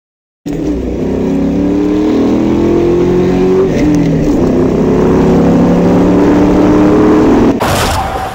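Car engine accelerating hard, starting suddenly about half a second in. Its pitch climbs, drops back at a gear change and climbs again, and a brief loud noisy burst comes near the end.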